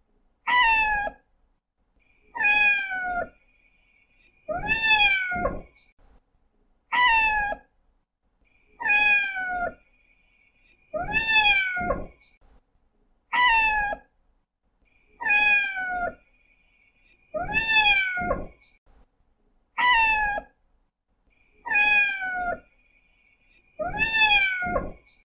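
Cat meowing over and over, about one meow every two seconds, each call falling in pitch; several end in a short second note.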